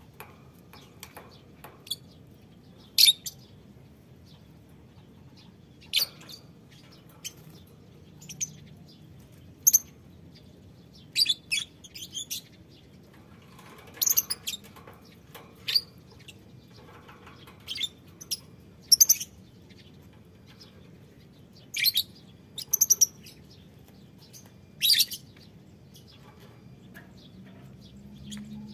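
A colony of lovebirds chirping: short, sharp, high-pitched calls, some single and some in quick clusters, coming every second or two.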